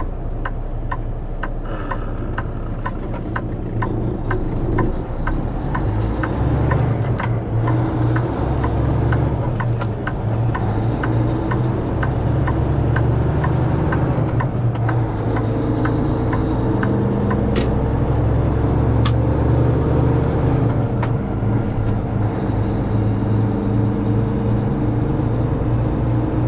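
Semi-truck engine running under load, heard from inside the cab as the rig pulls through a left turn. The turn signal ticks steadily through the first half and stops about halfway through, while the engine note rises and builds as the truck accelerates.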